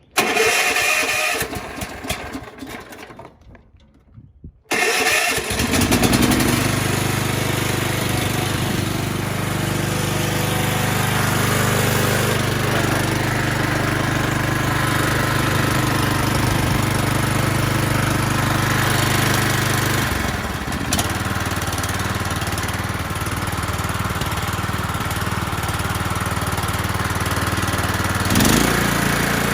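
Riding lawn mower engine turned over by its push-button electric starter for about four seconds, catching about five seconds in, then running steadily through its stock muffler. About twenty seconds in its speed drops to a lower steady note, with a brief rise near the end.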